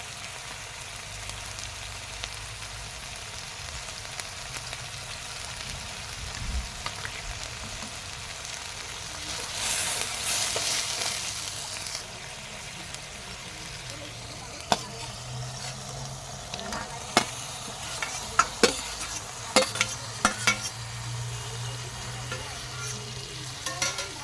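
Chicken and potato curry sizzling in a pan as it is stirred, with a louder hiss about ten seconds in. Over the last ten seconds, a spatula or spoon clicks and knocks against the pan.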